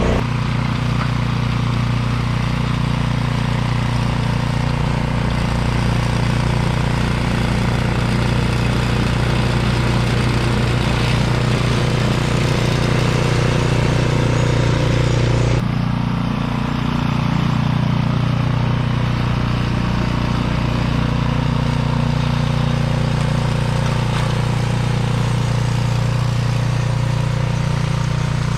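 Walk-behind snowblower engine running steadily under load, its tone shifting abruptly about halfway through.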